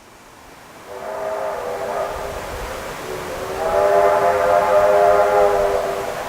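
Steam locomotive whistle sounding twice, several tones at once: a shorter blast about a second in, then a longer, louder one from about three seconds in that stops near the end.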